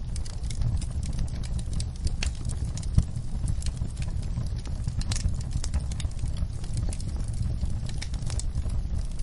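Wood fire crackling: irregular sharp pops and snaps over a steady low rumble of flame, with one louder pop about three seconds in.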